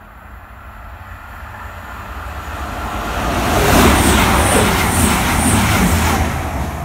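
Diesel multiple unit in East Midlands Trains livery approaching and passing alongside the platform. The rumble of engines and wheels on rail grows steadily louder, is loudest from about three and a half seconds in, and carries a few regular clicks as the carriages go by.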